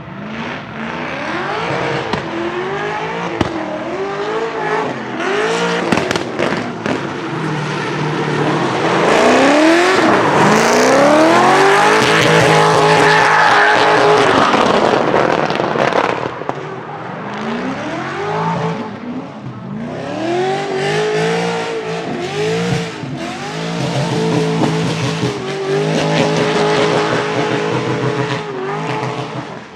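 BMW E30's swapped LS7 7.0-litre V8 revving up and down repeatedly while drifting, holding high revs twice for a couple of seconds, with tyre squeal and a few sharp exhaust pops from its crackle map.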